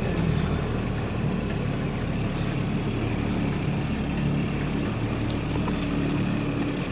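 A motor engine running steadily at an even pitch.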